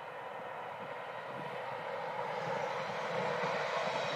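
An electric train running past on the main line, its rushing noise growing louder from about halfway through, with steady humming tones from its motors.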